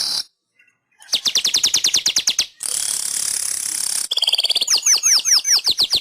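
Manyar (weaver bird) singing. A hissing buzz cuts off just after the start, and after about a second of silence come rapid trains of clicking notes, roughly ten a second. They are broken by a wheezy hiss of about a second and then a run of downslurred notes.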